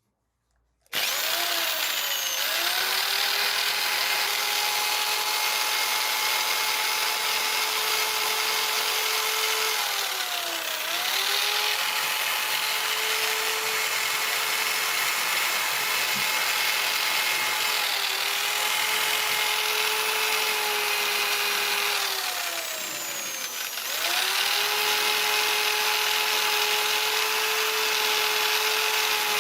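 Handheld power tool switching on about a second in and running at speed, its motor whine sagging in pitch and recovering three times as it is pressed against a workpiece, over a rough scraping hiss.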